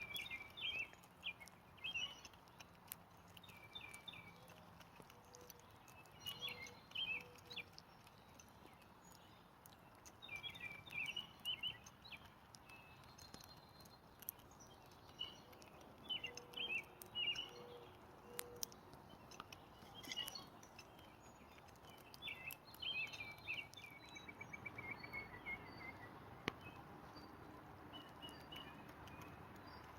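Wild songbirds singing in short, repeated chirping phrases, with a quick falling trill about 25 seconds in, over a faint outdoor background and scattered faint clicks.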